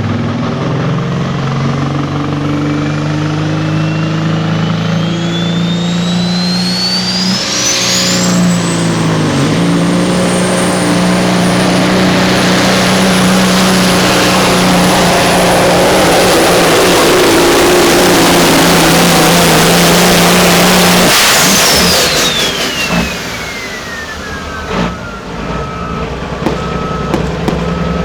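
Turbocharged diesel pulling engine running hard under load, its turbo whine climbing steadily to a high scream and holding. About three-quarters of the way through the engine comes off and the turbo whine falls away as it spools down.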